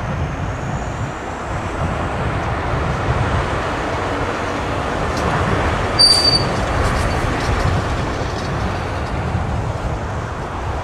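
De Havilland Dash 8 turboprop engines running with a steady low rumble. A brief sharp high ping sounds about six seconds in.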